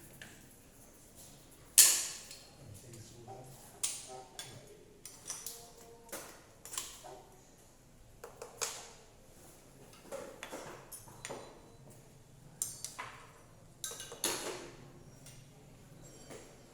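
Hand tools and metal engine parts knocking and clinking irregularly during cylinder head disassembly work, some strikes ringing briefly; the loudest knock comes about two seconds in.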